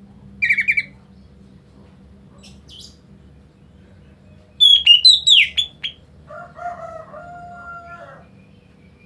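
A black bird gives a short chattering burst, then a run of loud, shrill whistled calls with falling sweeps about halfway through. Near the end a quieter, lower, drawn-out call with a held note follows, like a rooster crowing.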